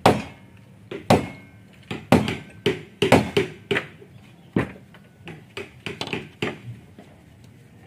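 Irregular, sharp blows of a hand tool striking wood, about a dozen, at times two or three in quick succession, each ringing briefly.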